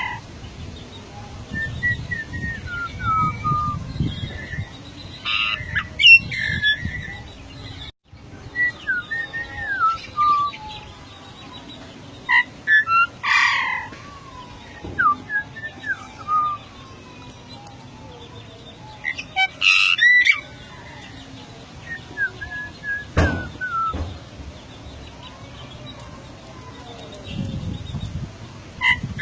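Golden myna calling: a series of clear whistled notes, mostly sliding down in pitch, broken about every seven seconds by louder, rougher calls.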